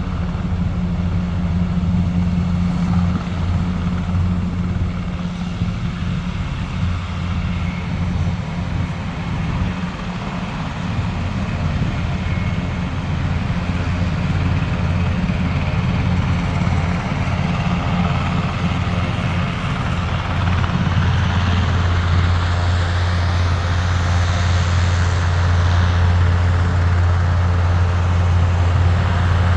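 Helicopter rotor and turbine running close by: a steady low drone with a rushing noise above it, growing louder from about twenty seconds in.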